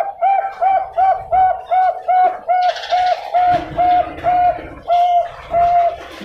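Bangkok-strain zebra dove (perkutut bangkok) cooing: a loud, rhythmic run of short, even coo notes, about three a second, spacing out slightly near the end.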